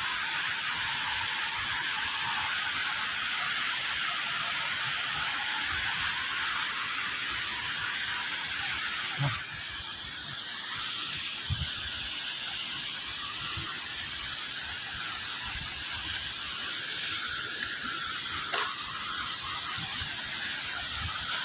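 Steady rush of flowing water, heard as a broad hiss. It drops a little in level about nine seconds in, and a few faint knocks stand out over it.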